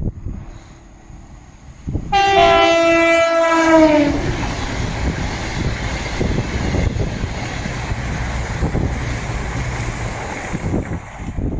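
A passing train sounds its two-tone horn, a higher note then a lower one, with the pitch sagging as it goes by. The train then rushes through at speed with a loud, steady rumble of wheels on rail that fades near the end.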